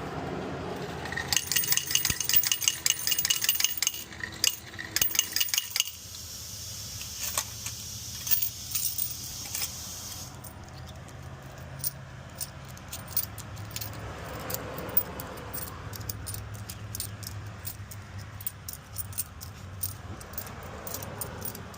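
Car wash bill changer paying out quarters for a $5 bill: a rapid metallic clatter of coins dropping into the tray for several seconds. After that come scattered clinks of quarters being handled.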